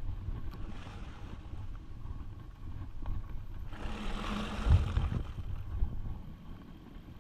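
Mountain bike riding over rough ground: a steady low rumble of wind on the microphone and the bike rolling, with a louder hissing rush coming in about four seconds in and fading over a second and a half.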